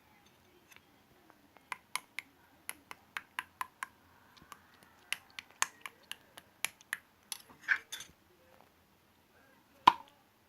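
Marble slime being pressed and squeezed by hand, giving an irregular run of sharp clicks and pops, with one louder pop near the end.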